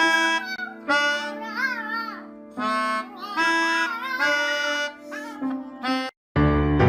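A melodica playing held notes while a small dog howls along, its voice wavering up and down in pitch. It cuts off suddenly shortly before the end.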